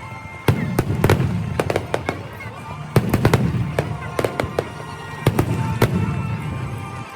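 Fireworks display: sharp bangs and crackles at irregular intervals, sometimes two or three in a second, over a continuous low rumble of distant bursts.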